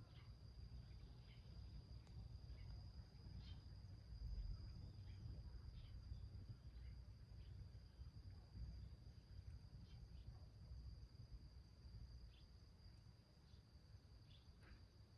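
Faint small wood fire burning in a tin can, giving scattered light crackles and ticks, over a steady high-pitched insect trill.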